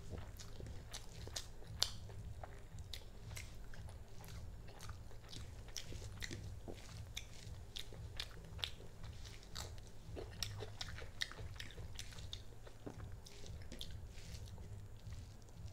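Close-miked eating sounds: chewing and small wet mouth clicks and smacks as a mouthful of turmeric rice and chicken bhuna is eaten by hand, several sharp clicks a second at an irregular pace. A low steady hum runs underneath.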